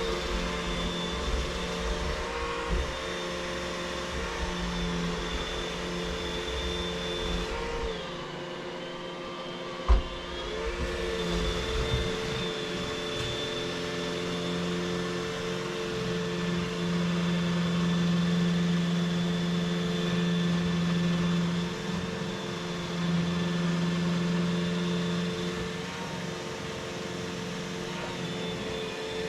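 Vacuum cleaner running steadily, its motor whine holding a constant pitch. The pitch dips briefly with a sharp knock about ten seconds in, and a low rumble comes and goes as it is pushed over the floor.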